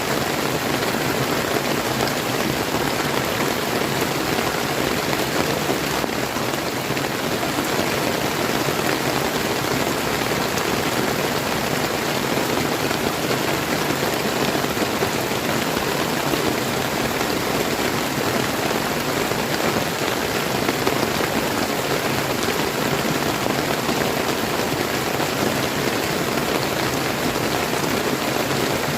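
Steady rain falling, mixed with the running water of a clear river, an even hiss with no change in level.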